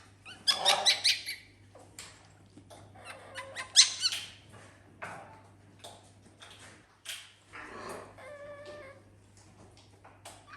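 Pet animals squeaking: quick runs of sharp, high-pitched squeaks in short bursts, the loudest about half a second in and about four seconds in, with a shorter wavering call near the end.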